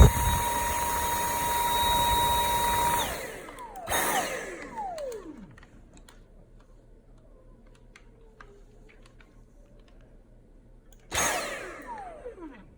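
Dyson V8 cordless stick vacuum motor running with a high steady whine and rush of air for about three seconds, then winding down with falling pitch. It gives a second short burst and wind-down a second later, and another brief run and wind-down near the end.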